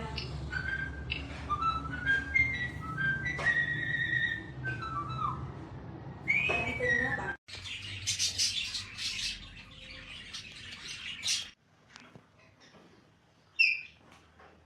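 A pet parrot whistling a string of short notes that slide up and down. This gives way to about four seconds of harsh, scratchy high chirping and squawking. A single sharp chirp comes near the end.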